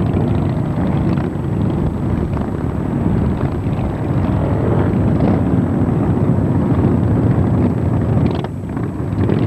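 Steady, loud rumble of vehicle engines mixed with wind buffeting the microphone.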